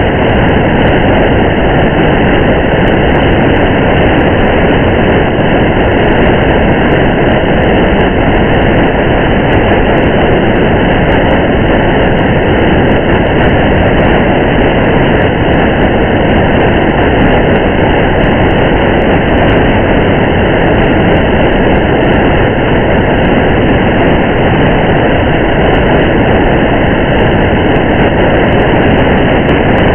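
Steady, muffled rush of rain and road noise from a car driving in the rain, unchanging, with no separate drops or other events.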